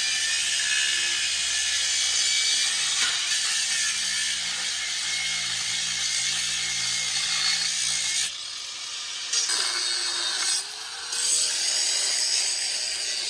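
A power tool running steadily with a harsh, hissing cutting sound. It pauses briefly twice in the last few seconds.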